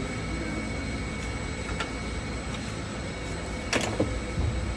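Steady workshop hum with a few short knocks and clinks of exhaust pipes and clamps being handled and fitted, the loudest pair near the end.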